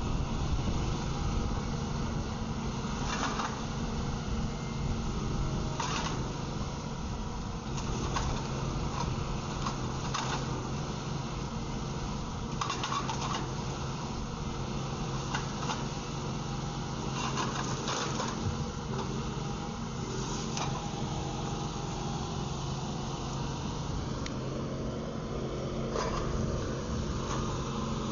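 Machinery running with a steady hum, with a short knock or clatter every two to three seconds.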